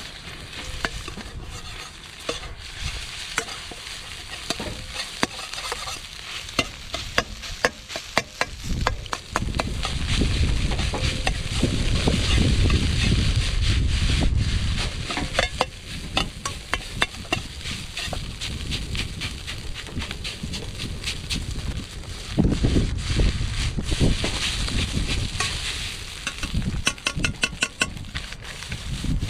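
Food frying and sizzling in an iron wok over a wood fire, while a metal utensil is stirred and tossed, scraping and clacking against the wok over and over, with a quick run of clacks near the end.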